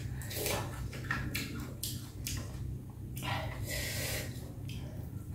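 Close-up eating sounds of a person chewing a mouthful of bún bò Huế rice noodles: soft, irregular wet mouth noises.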